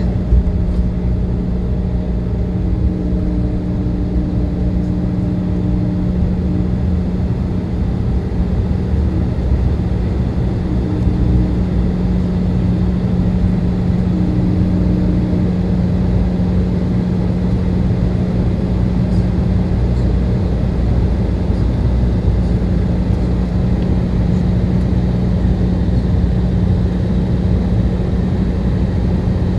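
Steady jet airliner cabin noise in flight: engine drone and airflow, with a constant low hum.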